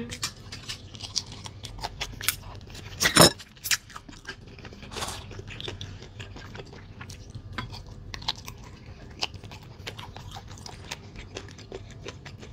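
Close-up chewing and gnawing of meat off soup bones, with a run of wet mouth clicks and crunches. Two louder bites come about three seconds in.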